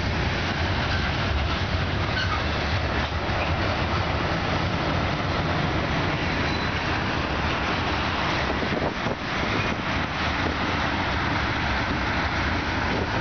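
Freight cars of a mixed freight train rolling steadily past: the continuous noise of steel wheels running over the rails.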